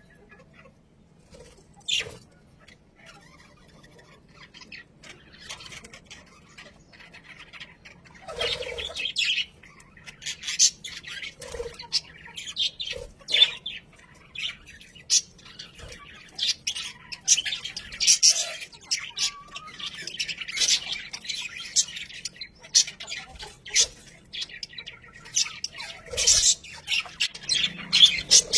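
Budgerigars chirping and squawking in short, high calls: a few scattered calls at first, then a busy run of chirps from about a third of the way in.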